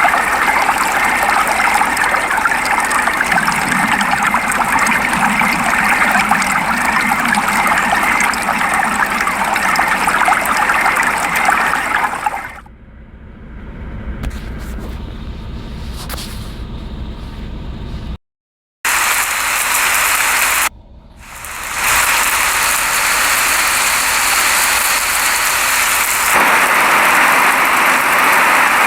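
Steady rain, a dense even hiss. It drops suddenly to a quieter low rumble about twelve seconds in, cuts out completely for about half a second a little after eighteen seconds, comes back, dips briefly again around twenty-one seconds, then carries on and grows a little louder near the end.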